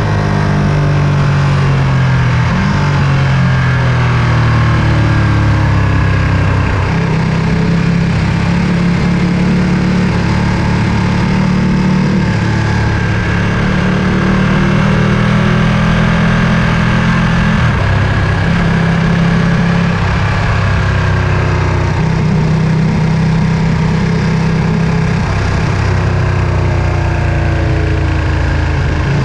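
Ducati Panigale V2's 955 cc Superquadro L-twin engine running steadily under way, its pitch shifting up and down several times with throttle and gear changes.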